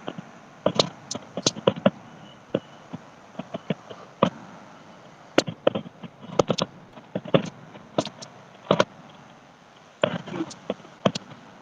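Fireworks going off: a string of sharp, irregular bangs and pops, some coming in quick clusters.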